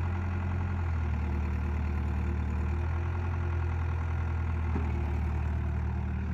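Large diesel engine idling steadily, a deep, even hum.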